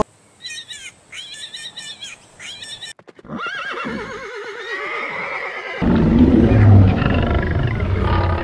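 A horse neighing, a quavering whinny that falls in pitch, comes in about three seconds in. Before it there is a string of short, high-pitched squeaks. In the last couple of seconds it gives way to a louder, deep rumbling sound.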